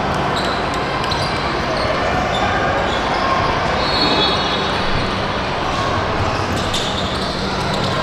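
Gym ambience during a youth basketball game: a basketball bouncing on the court floor amid a steady background of chatter, echoing in a large hall.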